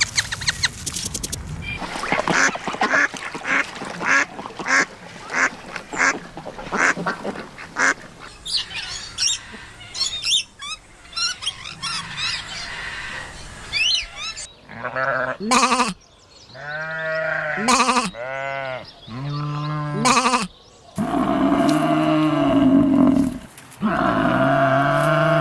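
A run of farm animal calls: short repeated calls about two a second, then high chirping, then a series of drawn-out pitched calls about a second each, loudest near the end.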